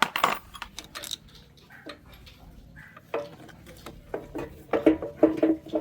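Metal clinks and knocks of tools and parts being handled: a sharp knock at the start, scattered clicks, then a quick run of short ringing clinks from about three seconds in.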